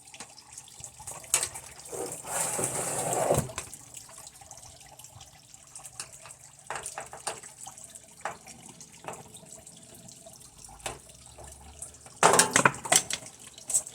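Clicks, knocks and rattles of hand tools and the TV's plastic casing being handled during disassembly. A louder scraping noise lasts about a second and a half from about two seconds in, and a sharp clatter of several knocks comes near the end, fitting a dropped driver.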